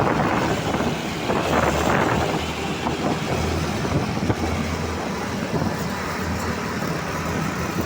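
Steady truck engine and road noise, with a low engine hum under a continuous rush of traffic.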